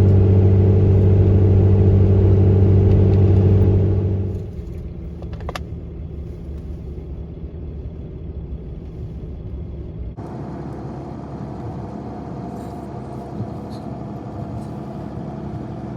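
Dodge 5500 truck pulling a loaded car-hauler trailer at steady speed: a loud, steady low engine drone for about the first four seconds. It then drops suddenly to quieter steady road rumble, which changes again abruptly about ten seconds in.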